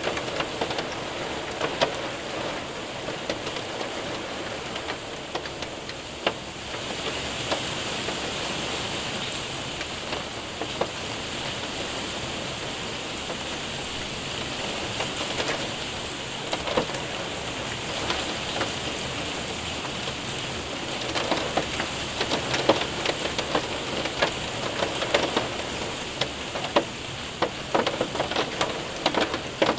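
Steady rain mixed with hail hitting a window and roof: a constant hiss scattered with sharp ticks of hailstones, which come thicker in the last third.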